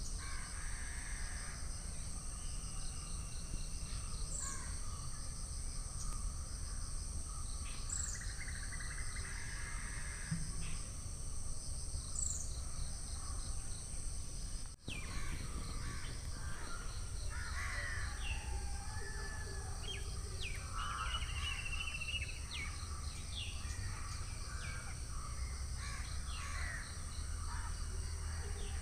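Background birds calling, including crow-like caws, over a steady high-pitched whine, with a brief dropout about halfway.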